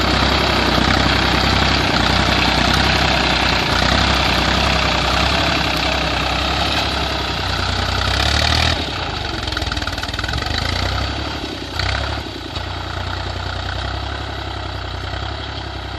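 Tractor engine running steadily, dropping in level about nine seconds in, with a brief louder burst near twelve seconds.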